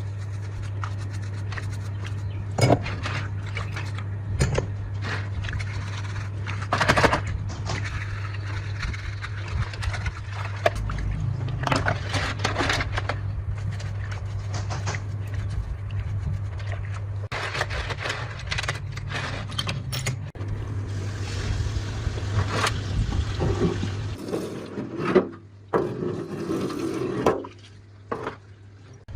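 Workshop scraping, clicks and knocks over a steady low hum; the hum stops about 24 s in, and handling clatter continues.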